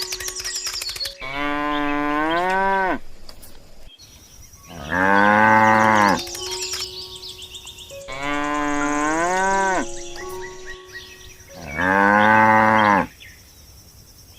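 Cattle mooing: four long moos about three and a half seconds apart, the same two calls heard twice over, with faint background music between them.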